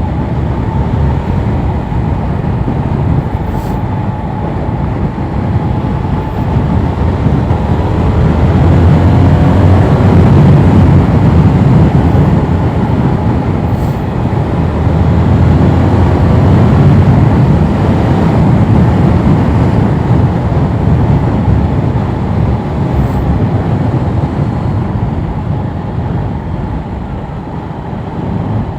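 Yamaha R7 motorcycle being ridden. Heavy wind rush on the helmet microphone covers the engine, whose note rises and falls faintly underneath. The whole sound swells louder through the middle and eases off near the end.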